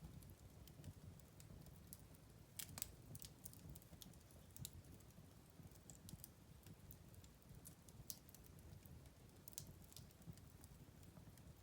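Wood fire in a fireplace crackling: quiet, irregular pops and snaps over a low steady rumble, with a louder cluster of pops about two and a half seconds in.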